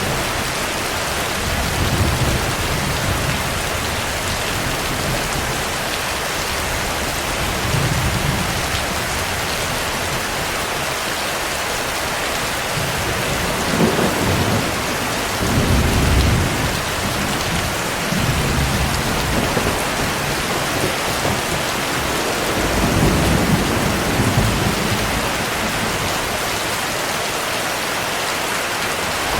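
Steady heavy rain hissing, with several low rolls of thunder rumbling through it, the strongest about halfway through and again near the end.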